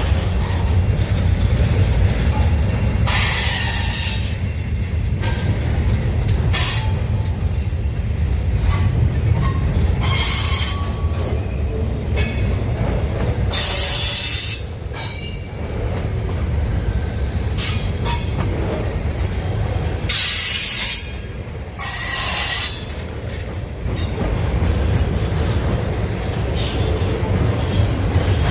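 Union Pacific intermodal freight train's cars rolling past with a steady heavy rumble, broken about seven times by short high-pitched metallic squeals from the running gear.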